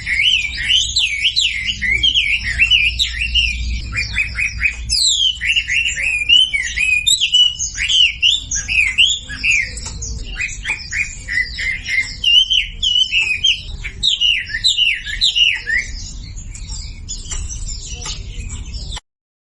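Wambi bird song played as a masteran lure recording: a rapid, unbroken chatter of high chirps, fast trills and down-slurred whistles, with a low hum underneath. It cuts off abruptly near the end.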